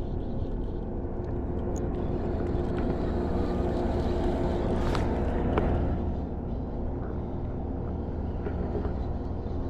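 A steady engine drone with a low, even hum, and a couple of light clicks about five seconds in.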